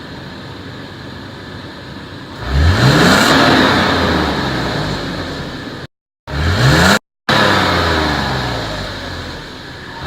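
2016 Toyota 4Runner's 4.0-litre V6 on its factory exhaust, idling and then revved: the engine note rises sharply about two seconds in and slowly falls back. It is blipped again around six seconds, between two brief dropouts in the sound, and sinks back toward idle near the end.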